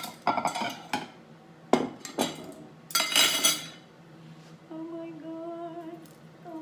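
Kitchen utensils and dishes clattering, a handful of sharp metal knocks and clinks. Then, from about three-quarters of the way in, a woman humming a steady low note.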